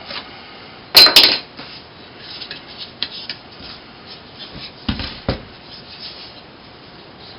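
Hard objects being handled and set down on a workbench: a sharp, loud double clack about a second in, then lighter knocks and rubbing, with two more knocks near the middle.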